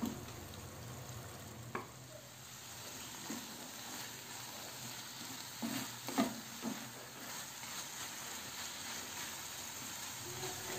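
Marinated turkey pieces sizzling steadily in oil in a nonstick frying pan on high heat. A wooden spatula stirs and scrapes against the pan a few times, most clearly about 2 seconds in and around the middle.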